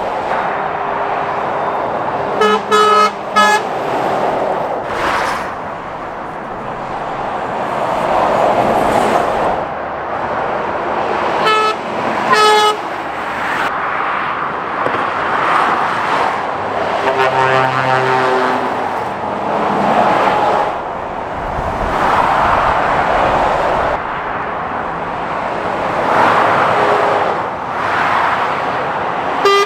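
Lorries and cars passing at speed on a dual carriageway, their tyre and engine noise swelling and fading one after another. Horns sound several times: a quick run of short toots about three seconds in, two more around twelve seconds, and a longer blast a few seconds after that.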